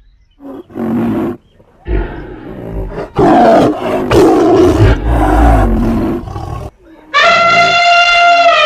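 Big-cat roar and growl sound effects, several in a row, the loudest a long roar in the middle. Near the end comes a long, steady trumpet call like an elephant's, dropping in pitch as it ends.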